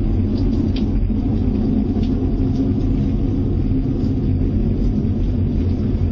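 Loud, steady low rumble with no break, an unexplained droning noise of the kind reported as mysterious sounds in the sky.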